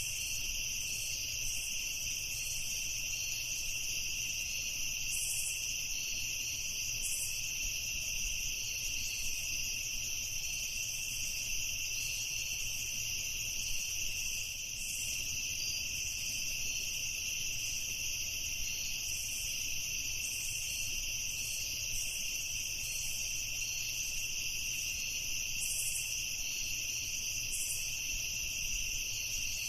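A night chorus of crickets chirping, steady and unbroken, with a faster pulsing higher trill layered over it.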